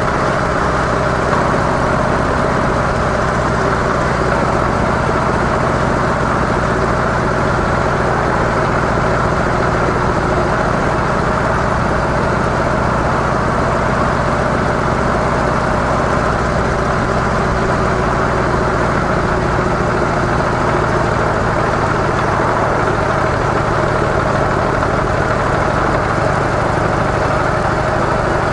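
Harley-Davidson CVO Softail's air-cooled V-twin engine running steadily through stock mufflers, holding an even pitch and level throughout.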